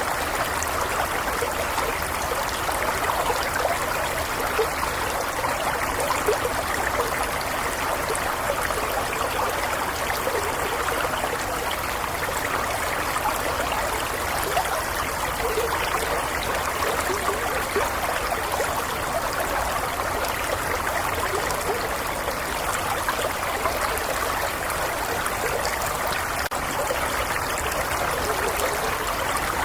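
A gently flowing stream: a steady, even rush of running water with fine flickering detail and no pauses.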